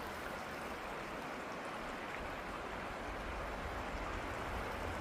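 Steady rushing of a stream flowing beside the trail.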